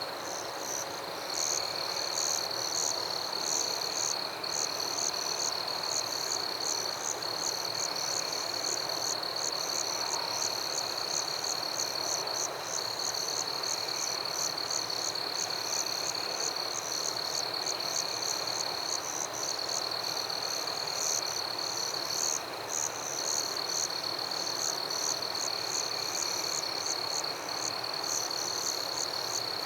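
Rainforest ambience: a chorus of calling insects and frogs, with one steady high-pitched drone and a fast, even train of chirps over it, unbroken throughout.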